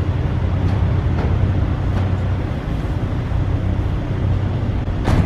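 Car engine idling with a steady low exhaust rumble, with one sharp click near the end.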